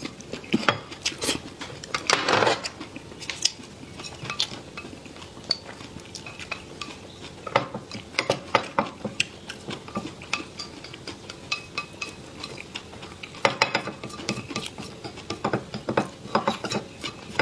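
Eating at a table: utensils clicking and tapping against bowls and plates, with chewing, in irregular short clicks that come in clusters.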